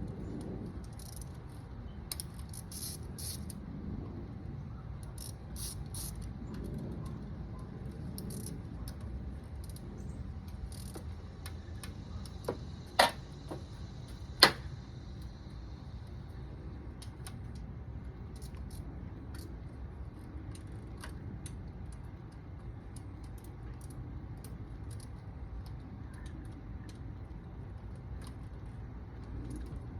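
Light metallic clicks and jingles of hand tools being handled over a steady low rumble, with two sharp clicks about a second and a half apart near the middle.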